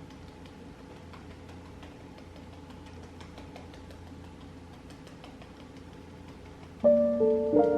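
Quiet room tone with a faint steady hum and scattered faint clicks, then soft piano music starts suddenly near the end and is the loudest sound.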